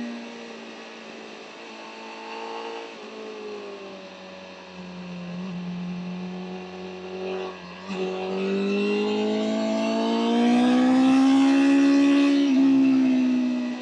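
BMW M1000R's inline-four engine at moderate, fairly steady revs, then pulling harder about eight seconds in, its pitch climbing and getting louder, with a quick upshift near the end.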